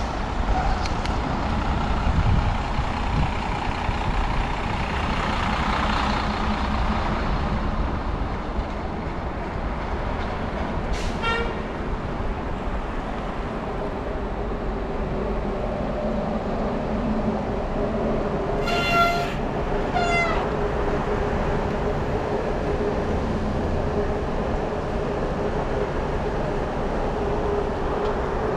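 Wind and street traffic noise heard while riding a bicycle, with one short high beep near the middle and two brief toots about a second apart later on.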